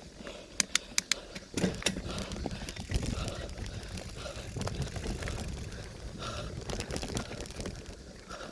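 Bicycle rattling over a rough forest trail. A quick run of sharp clacks comes in the first two seconds, then a steady rumble of tyres and frame.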